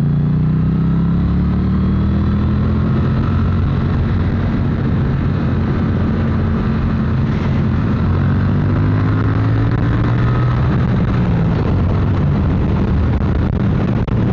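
Triumph motorcycle engine under way on the road, a soft, calm rumble whose pitch rises as the bike pulls, holds at a cruise, then dips and climbs again.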